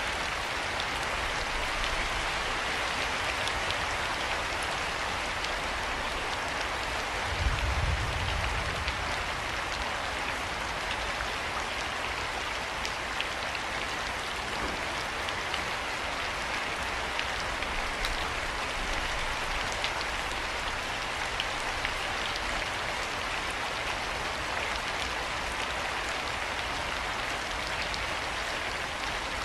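Steady rain falling: an even hiss with fine scattered drop ticks. A brief low rumble about eight seconds in.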